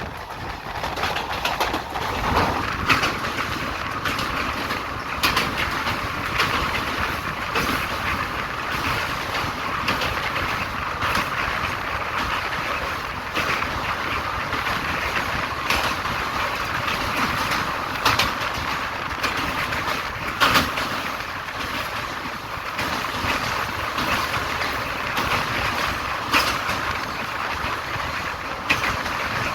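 Passenger train running along the platform: a steady rolling rumble and wheel noise, with sharp clicks every two to three seconds as the wheels cross rail joints.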